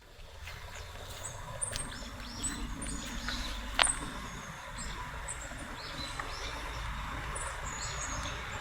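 Small forest songbirds calling, a scatter of short, high, thin notes over a steady low rumble. A single sharp click a little under four seconds in.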